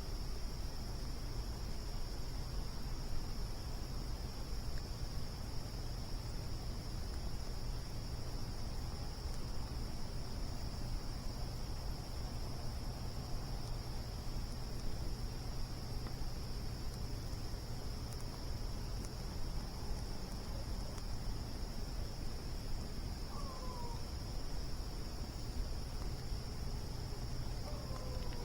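Crickets chirring in a continuous high, steady trill over a low rumble, with two brief falling calls near the end.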